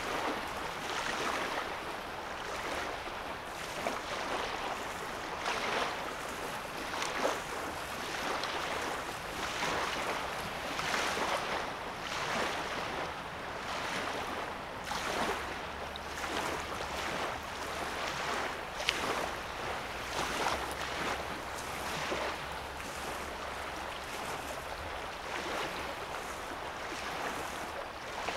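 Small lake wavelets lapping on a sandy shore: soft, uneven washes every second or two, with the odd sharper splash.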